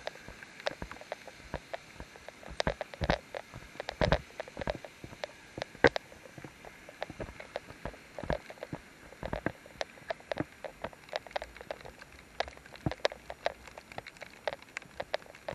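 Raindrops pattering: scattered sharp taps, several a second and uneven in loudness, over a faint steady background.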